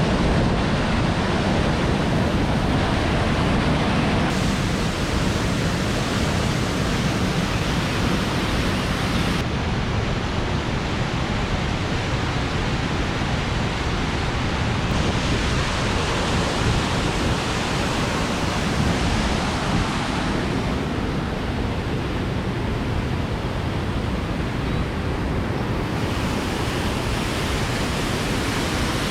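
Steady roar of a large waterfall, Silvertip Falls, heard from the top of the falls. Its tone changes abruptly a few times.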